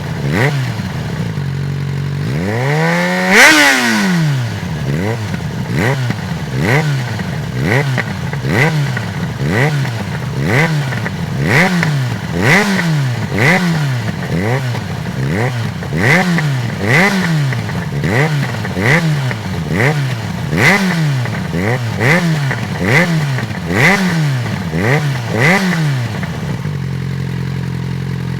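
Jaguar XJ6 straight-six engine through a gutted original exhaust line, revved once hard about three seconds in, then blipped about once a second over and over, settling back to a steady idle near the end.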